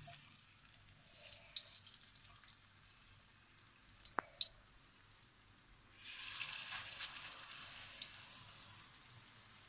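Zucchini fritters frying in hot oil: faint scattered crackling and popping, swelling into a louder sizzle about six seconds in as another fritter goes into the pan, then slowly fading. A single sharp click a little past four seconds.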